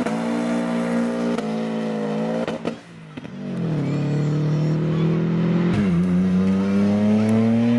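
High-performance sports car engine accelerating hard, its pitch climbing through the revs with a gear change, dropping away briefly about three seconds in, then pulling up again through another upshift.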